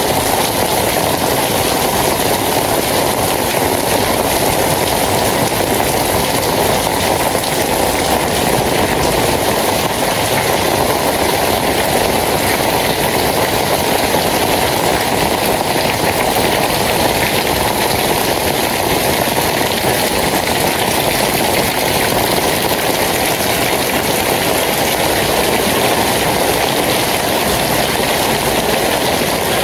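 Rain falling steadily, an even loud hiss with no breaks.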